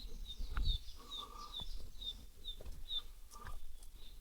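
A small bird calling, a short high chirp repeated about twice a second.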